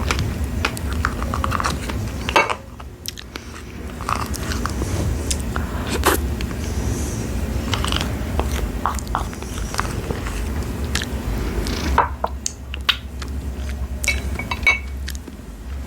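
Close-up chewing and biting of fresh strawberries dipped in whipped cream, with many short, wet mouth clicks scattered throughout.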